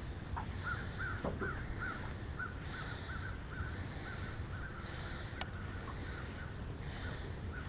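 A bird calling in a rapid series of short, evenly repeated notes, about four a second, which stops about six seconds in. Underneath is a steady low rumble of wind and water.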